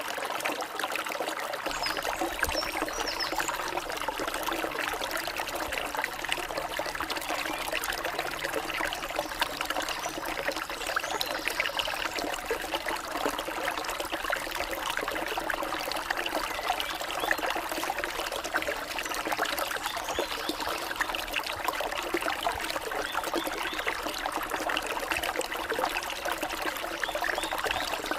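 Stream water flowing and splashing, a steady trickling babble.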